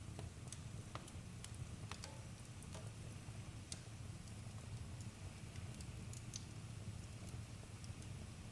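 Wood campfire crackling: scattered sharp pops and snaps at uneven intervals over a low steady rumble.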